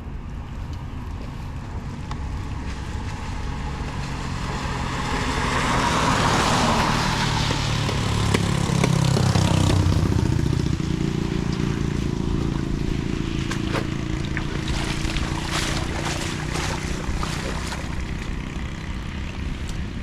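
A motor vehicle going past, its engine hum swelling to a peak about halfway through and then fading, over a steady rushing noise, with a few sharp clicks near the end.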